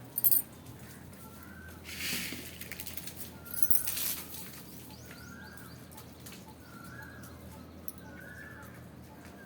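A bird calling faintly and over and over, short identical notes about one every second and a half. There is a sharp click just after the start and two brief rustling noises about two and four seconds in.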